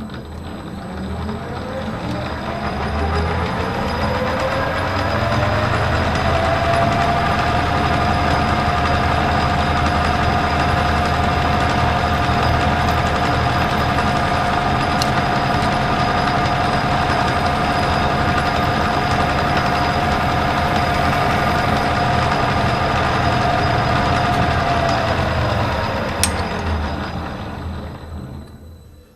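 Metal lathe spindle and motor starting up, the whine rising in pitch over about six seconds, running steadily, then winding down near the end after a sharp click.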